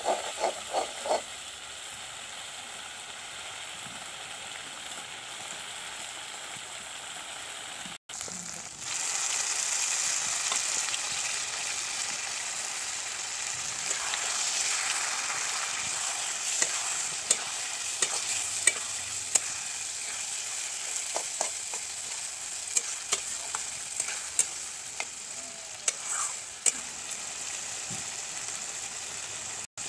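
Masala frying and sizzling in an iron kadhai, stirred with a steel spatula that scrapes and knocks against the pan. About 8 seconds in, the sizzle turns louder as chopped tomatoes fry, with more spatula knocks later on.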